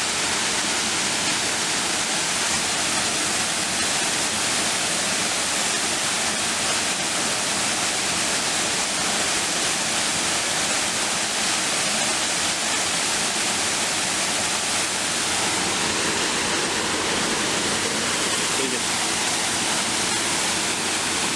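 Waterfall: the steady, even rush of falling water, loud and unbroken.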